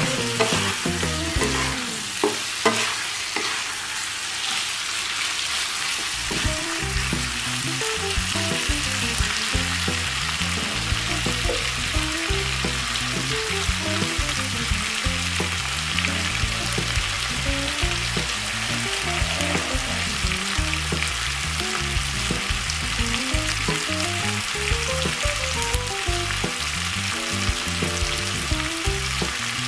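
Hard-boiled eggs and tomato masala sizzling in hot oil in a nonstick pan while a wooden spatula stirs them, with a few sharp knocks of the spatula in the first few seconds. A melody plays softly underneath.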